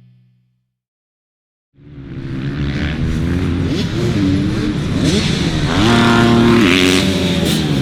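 Motocross dirt bike engines revving hard, their pitch rising and falling with throttle and gear changes. The sound comes in about two seconds in.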